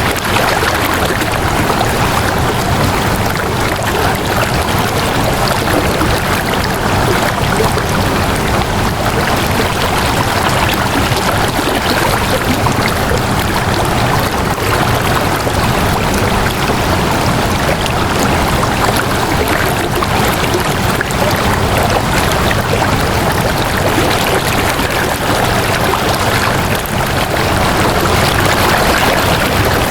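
Flowing water, a steady unbroken rush with no let-up.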